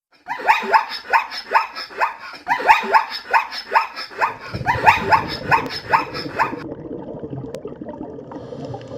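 A dog yipping and barking in quick, high, short calls, about three a second, each dropping in pitch, for about six seconds. From about halfway a low, rough, steady noise joins in and carries on after the yips stop.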